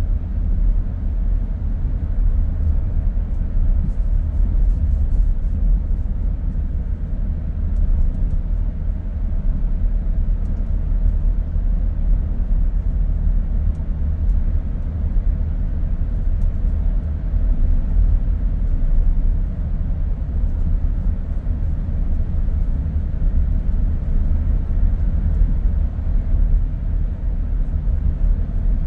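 Car driving along a street: steady low road and tyre rumble.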